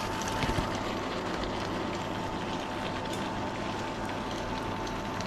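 Thick crab masala sizzling and bubbling in a pan, with scattered small pops and a steady high-pitched tone underneath.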